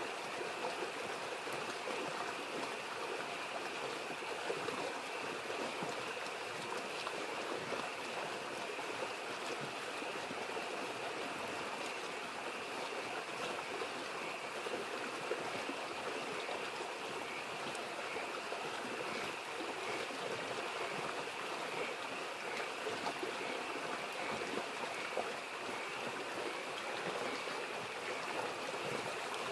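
Small stream babbling steadily, with a continuous chorus of frogs calling and a few faint crackles from a campfire.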